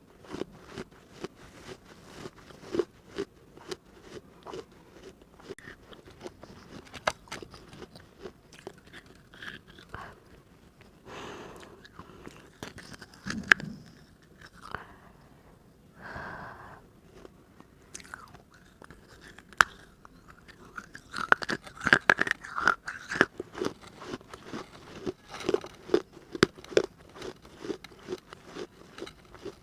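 Close-up chewing of hard pieces of a baked clay diya: repeated crisp crunches as the fired clay breaks between the teeth, with a denser, louder run of crunches about two-thirds of the way through.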